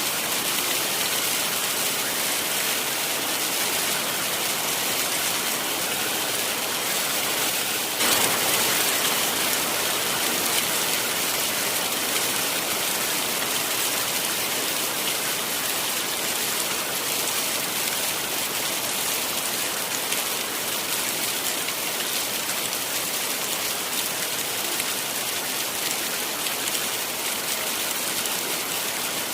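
Heavy rain falling steadily, a dense, even hiss of drops. It swells a little heavier about eight seconds in, then eases back.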